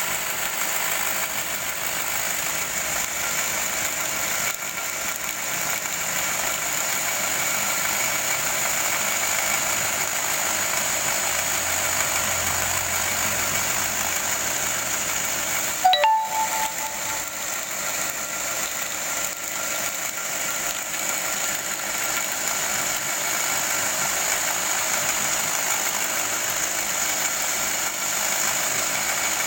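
Homemade belt grinder running steadily, its abrasive belt driven by an electric motor salvaged from a water pump, with a high hiss over the motor hum. A single sharp click about halfway through.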